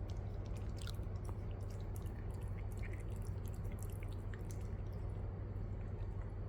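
Quiet room tone: a steady low hum with scattered faint small ticks and clicks throughout.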